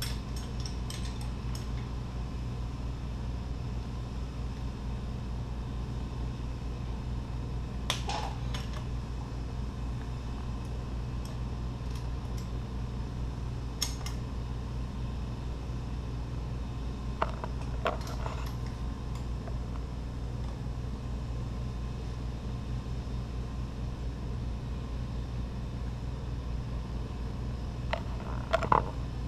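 A steady low mechanical hum, with a few short metallic clinks and taps scattered through it, the loudest cluster near the end.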